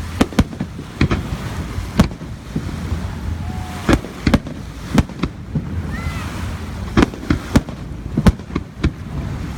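Fireworks display, shells bursting in sharp irregular bangs about two a second, some in quick pairs.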